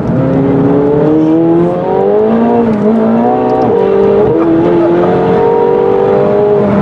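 McLaren 720S twin-turbo V8 under hard acceleration, heard from inside the cabin: the engine note climbs in pitch and drops back several times as the gearbox shifts up.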